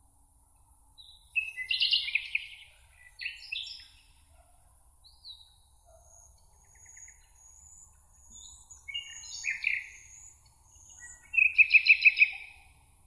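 Songbirds singing in a meadow: several short bursts of song, the loudest a fast trill near the end, with faint high twittering from more distant birds between them and a light steady hiss.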